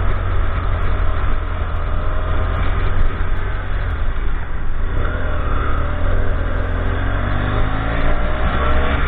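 Motor vehicle engine running under a heavy low rumble, its pitch dipping about five seconds in and then rising steadily over the last few seconds.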